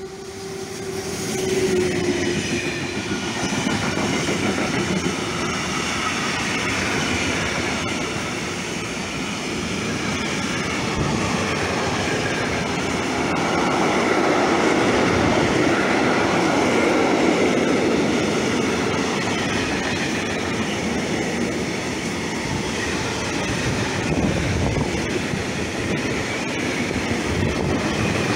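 A heavy freight train of tank wagons passing close by behind an electric locomotive. The sound swells over the first two seconds as the locomotive arrives, then holds as a loud, steady rumble of wagon wheels on the rails.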